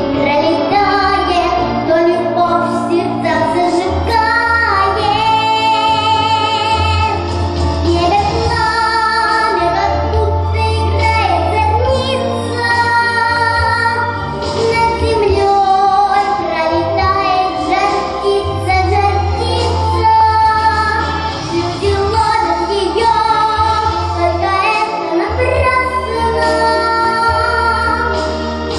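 A young girl singing a pop song over a recorded backing track, with vibrato on her held notes and a steady bass line underneath.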